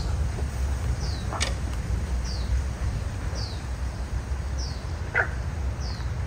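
A bird calling: a short, high note that falls in pitch, repeated evenly about once a second, over a steady low rumble, with two faint clicks.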